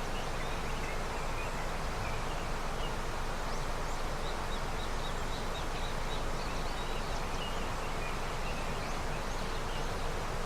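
Snowmelt river flowing steadily, with many short high bird chirps over the rush of water.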